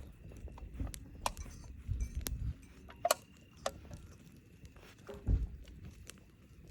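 Campfire crackling, with about half a dozen sharp, irregular pops over a low rumble.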